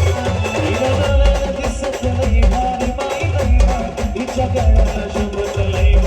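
Live band music: a loud percussion-driven folk beat with heavy bass-drum hits about once a second, sharp clicking percussion and a melody line over it.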